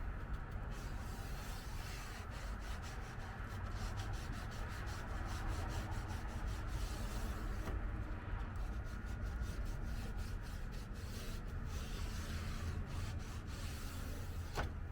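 Sanding on a car's body panel ahead of paint: a continuous scratchy rubbing made of quick repeated strokes.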